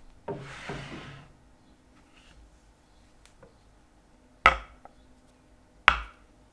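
Objects handled and set down on a workbench: a brief rustling scrape near the start, then two sharp knocks about a second and a half apart, the second as a small plastic jar is put down on the bench top.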